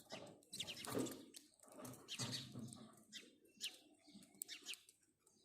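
House sparrows chirping: many short, high chirps in loose groups, faint, with duller low sounds mixed in, the loudest about a second in.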